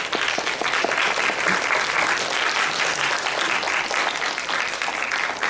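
Audience applauding, steady hand-clapping from a crowd that dies away just after the end.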